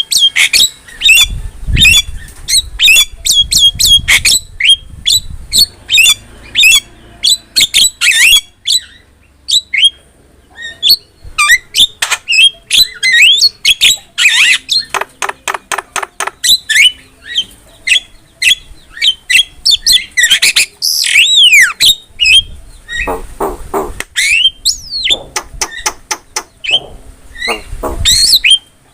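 Javan myna calling in a rapid, varied run of harsh squawks, chirps and whistles, some of them gliding up or down in pitch.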